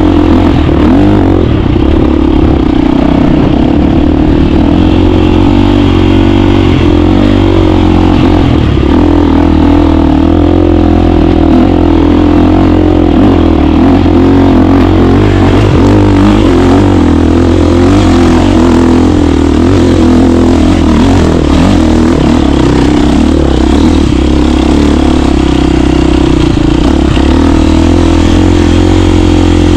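KTM 350 four-stroke single-cylinder dirt bike engine running loud and continuously while being ridden, its pitch rising and falling a little with the throttle.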